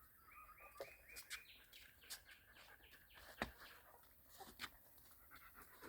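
Near silence with faint bird chirps: a quick run of about six short, high notes in the first second and a half. A few faint clicks are scattered through the rest.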